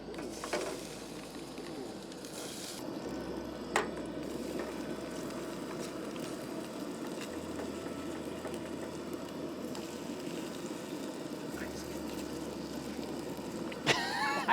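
Cooking oil sizzling steadily in a frying pan, with two sharp clicks about half a second and four seconds in.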